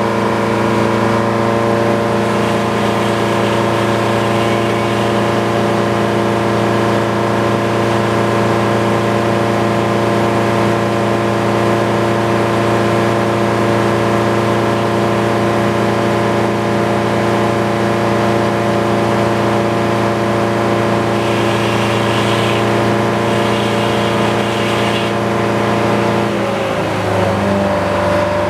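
Portable sawmill's gas engine running steadily at high speed while sawing a cherry log. Near the end the engine speed drops to a lower steady note.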